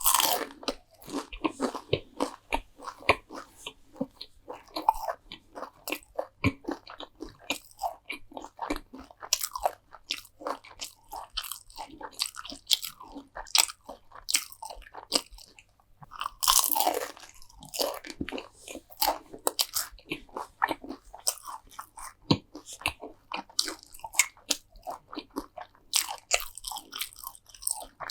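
Close-miked eating: someone biting and chewing crunchy food, with dense, irregular crackling crunches and a longer, louder crunch about two-thirds of the way through.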